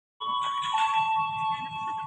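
Electronic warning chime sounding two steady held tones, the higher one starting abruptly and a lower one joining about half a second later, over a low background rumble.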